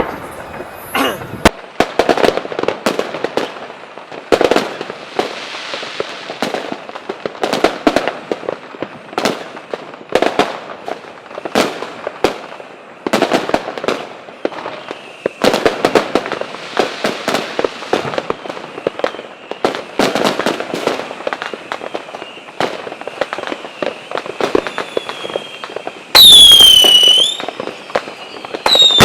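Aerial fireworks display: a rapid, irregular series of bangs and crackling bursts, with a loud falling whistle about three seconds before the end.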